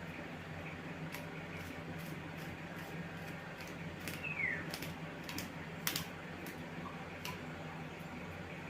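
Scattered light clicks and taps, with one short falling squeak about four seconds in and a sharper click near six seconds, over a steady low hum.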